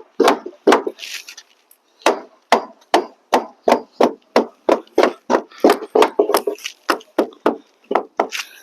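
Wooden framing piece being knocked into place with repeated sharp blows, seating a glued joint tight. Three blows, a pause of about a second, then a steady run of about three blows a second.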